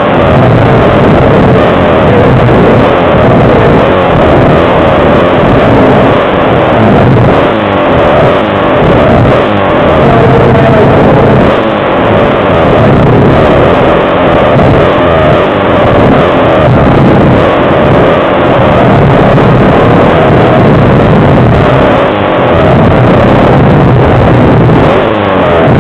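Pit bike engines racing flat out, small single-cylinder motors revving up and down continually as the riders work the throttle and gears. Very loud throughout.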